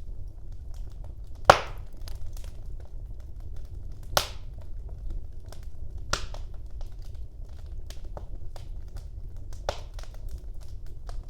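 Wood fire crackling in a fireplace: a steady low rumble of flame with scattered small snaps and four louder pops, the loudest about a second and a half in.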